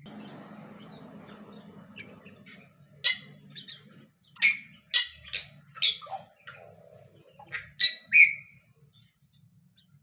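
A bird giving a series of short, sharp chirps, about eight loud calls in bursts over several seconds, after a soft rustling hiss in the first couple of seconds.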